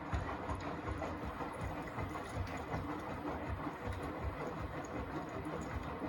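Beko WTK104121A washing machine running a rinse, its drum turning with a steady low rumble and uneven low thuds.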